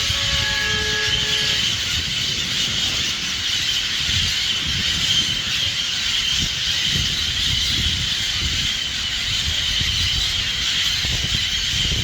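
A large flock of birds chattering and screeching all at once in a steady, dense chorus, over a low rumble of traffic. A few brief held tones sound near the start.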